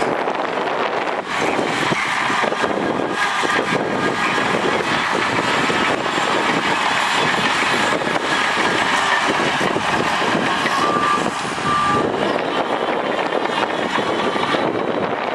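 Heavy earthmoving machinery running steadily under load, with two short beeps a second apart about eleven seconds in.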